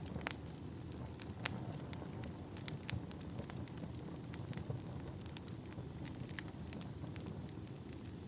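Wood fire burning in a fireplace: a steady low rumble with irregular crackles and sharp pops of burning logs, a few louder pops in the first three seconds. A faint high whistle sets in about halfway and drifts slightly lower.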